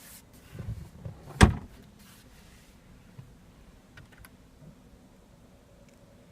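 Glove box of a Jaguar F-Type being handled: a few soft knocks, then a single sharp thump as the lid shuts about a second and a half in, followed by a couple of faint clicks.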